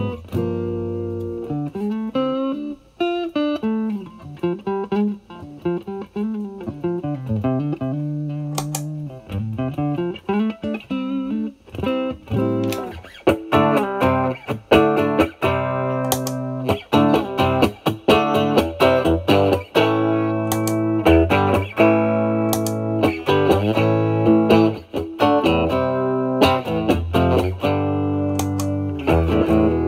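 Fender Stratocaster electric guitar played through a Vertex Steel String Clean Drive overdrive pedal into a Marshall Valvestate amp's clean channel. It starts with single-note licks and string bends, then moves to louder strummed chords about twelve seconds in, with the pedal's gain at zero.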